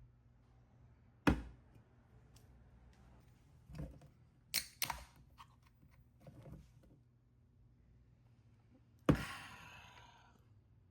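Handling knocks in a small room: a sharp knock just over a second in, a few lighter clicks and taps, then a second sharp knock near the end with a short rattling tail.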